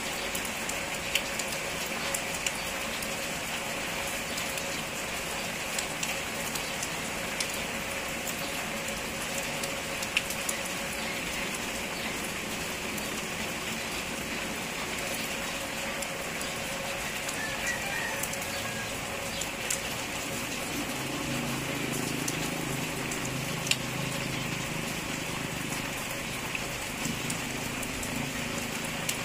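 Steady rain falling, with scattered sharp drip and drop hits through the hiss. About two-thirds of the way in, a low steady hum joins underneath.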